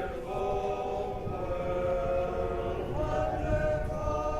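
Men's barbershop chorus singing a cappella, holding long close-harmony chords that shift together about a second and three seconds in.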